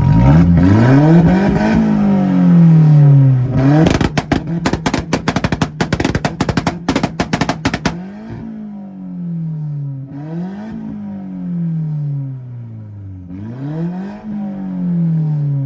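Volkswagen engine revving hard in a two-step rev battle. About four seconds in it breaks into a rapid machine-gun stutter of pops on the two-step launch limiter for several seconds. Then come a few rev blips that climb quickly and fall away slowly.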